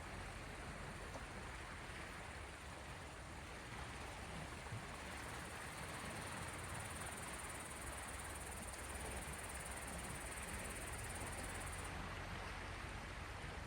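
Small sea waves washing on the shore: a steady, even wash of water noise.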